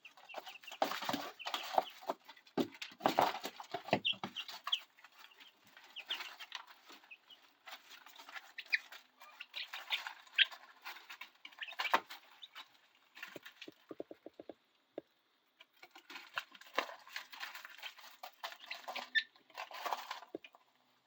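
Three-week-old chicks in a brooder, giving short high peeps among a lot of scratching and pecking clicks in the bedding. About two thirds of the way through there is a quick run of evenly spaced ticks.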